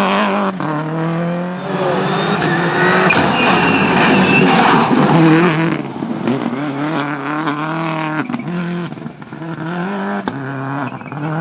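Rally car engine revving hard, its pitch climbing and dropping again and again through gear changes and throttle lifts. Loudest in the first half; it falls away a little about six seconds in and dips briefly about nine seconds in.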